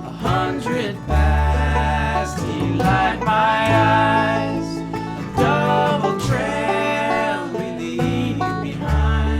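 Instrumental break in a country/bluegrass-style song: banjo picking over guitar and a bass line that changes note every second or two.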